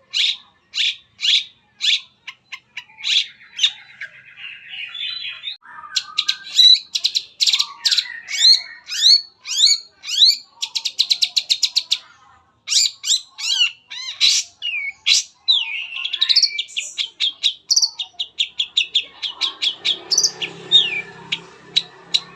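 Long-tailed shrike singing a fast, varied song full of mimicked phrases: strings of short sharp notes, a rapid trill and gliding whistles. A low murmur joins in under the song for the last few seconds.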